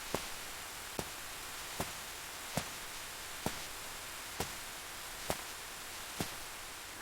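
A steady hiss with a soft, sharp tick a little more often than once a second, eight ticks in all.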